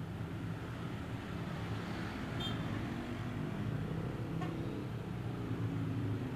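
Street traffic: motor vehicle engines running steadily, growing a little louder after a couple of seconds, with two brief high-pitched tones partway through.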